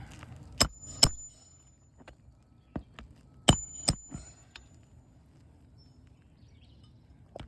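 Hammer driving roofing nails into asphalt shingles: two pairs of sharp strikes a few seconds apart, with a brief high metallic ring after the first strike of each pair, and a few lighter taps between.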